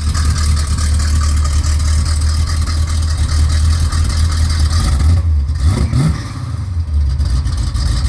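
V8 engine idling through newly fitted 3-inch turbo mufflers with a deep, bass-heavy exhaust note. About five and a half seconds in the throttle is blipped briefly, the pitch rising and dropping back to idle.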